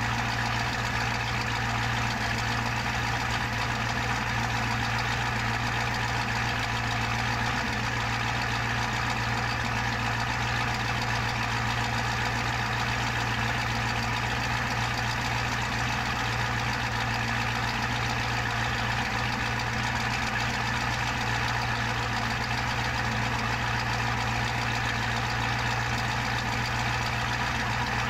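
Ford Starliner's engine idling steadily, with no change in speed.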